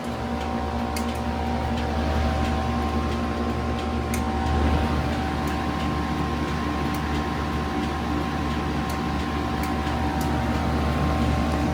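2016 Lasko Power Plus heat pump running steadily frosted up, nearing a defrost cycle: compressor and fan hum with several steady tones, growing a little louder in the first couple of seconds and then holding.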